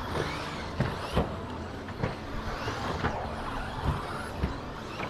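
Several 2WD radio-controlled stadium trucks racing on the track. Their motors give high-pitched whines that rise and fall with the throttle, and sharp knocks come about once a second.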